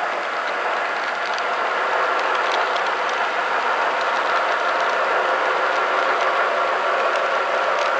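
Model train running on the club layout: a steady whirring rush of motor and wheels on the track, with faint scattered clicks.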